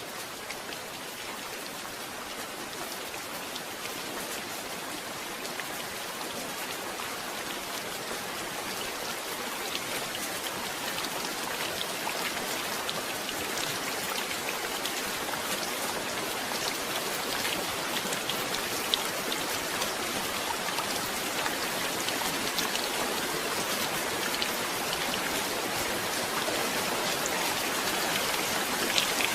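Steady rain falling on a surface, a dense hiss with scattered individual drop ticks, growing slowly heavier.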